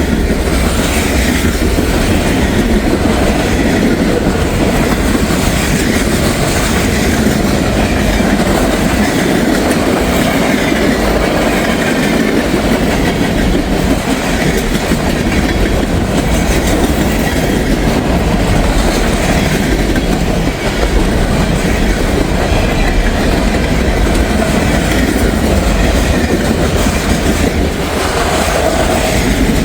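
Freight train rolling past at close range, a steady rumble with wheels clacking over the rail joints and a faint squeal of wheels on rail now and then.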